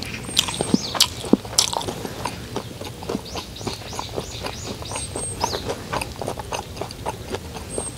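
Small birds chirping, a quick series of short falling chirps about three a second, over scattered light clicks and taps.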